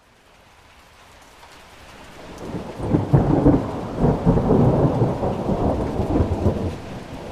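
Rain fading in from near silence, then a long peal of thunder that builds about two seconds in, rumbles loudest through the middle and eases off near the end.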